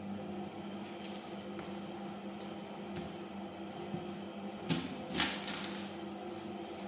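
Light clicks and taps of kitchen utensils during food preparation, with a few louder sharp knocks about five seconds in, over a steady low hum.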